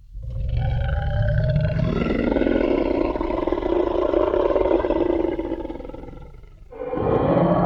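Tyrannosaurus rex roar sound effect: one long, loud, rasping roar of about six seconds that deepens about two seconds in and then fades away. Near the end, another roar with a more pitched, growling tone begins.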